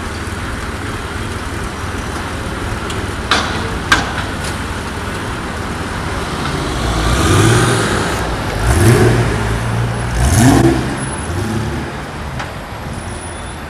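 Supercar engine revved three times in quick succession, each a short rising blip over a steady idle and street traffic. Two sharp clicks come before the revs.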